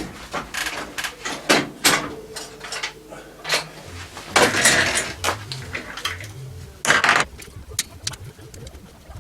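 Scattered metal knocks and clinks as the exhaust pipe is worked off a mini dirt bike, loudest a little over four seconds in and again about seven seconds in. A pigeon coos in the background.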